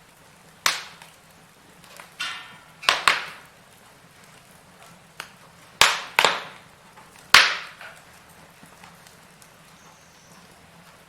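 Burning firewood crackling, with sharp irregular pops, a few in quick pairs and the loudest about seven seconds in, over a faint steady hiss of the fire.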